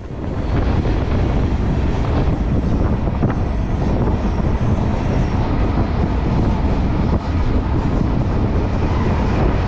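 Heavy wind buffeting the microphone over the rumble of a moving freight train, heard from atop an open freight car. It comes in suddenly about half a second in and then runs steadily.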